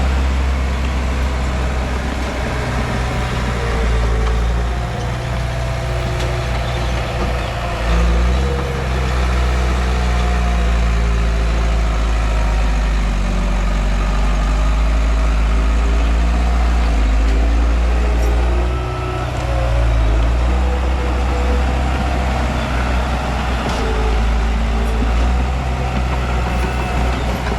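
Komatsu D31P bulldozer's diesel engine running loud and steady as the dozer works, its pitch shifting up and down with the load.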